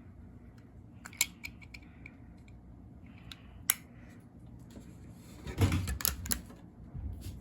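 Handling noises: a sharp click about a second in and another a little before four seconds, then a short burst of knocking and rustling near six seconds, over a low steady room rumble.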